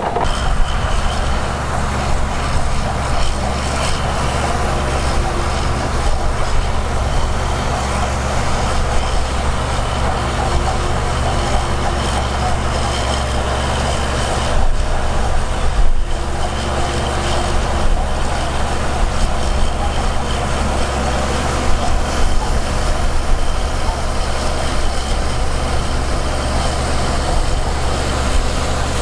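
Heavy diesel engine of earthmoving equipment running steadily, a deep low hum with a broad mechanical noise over it.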